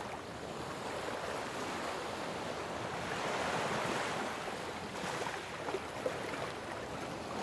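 Ocean surf, a steady wash of waves that swells about three to four seconds in and then eases back.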